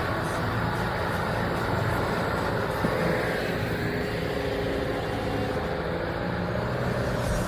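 Off-road 4x4 vehicle driving along, its engine running steadily under a continuous rumble of motor and road noise.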